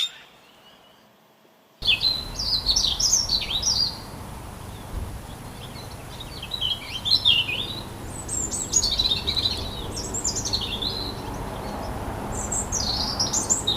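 A songbird singing in short, rapid phrases of quick chirping notes, four phrases with brief pauses between them, starting about two seconds in over a low steady background hum.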